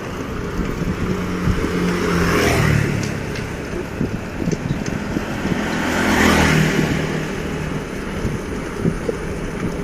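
Motor vehicles passing on a road, two of them swelling past about two and a half and six and a half seconds in, over a steady rumble.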